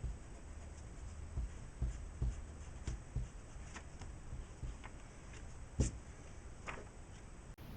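Faint scratching and light tapping of pencil and eraser working on drawing paper, with one sharper knock a little before six seconds in.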